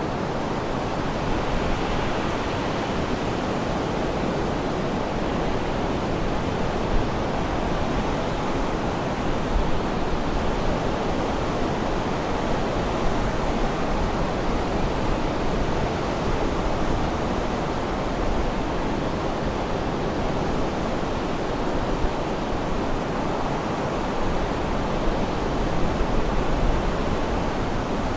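Sea surf washing steadily, a continuous rushing noise with no birdsong standing out.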